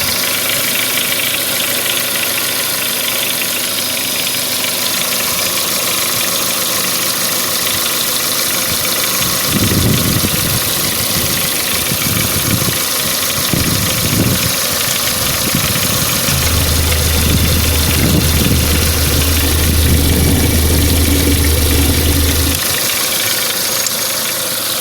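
Renault Megane II 1.6-litre engine running with a knock that the owner puts down to the exhaust camshaft damper. A deeper low hum joins for about six seconds past the middle.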